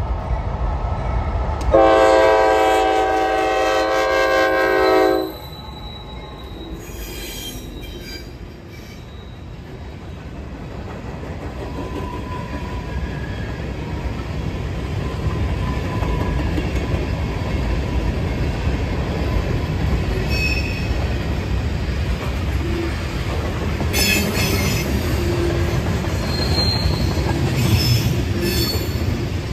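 A locomotive air horn sounds one chord for about three seconds. Then a train rolls past with a steady rumble that builds, and the wheels give short high squeals near the end.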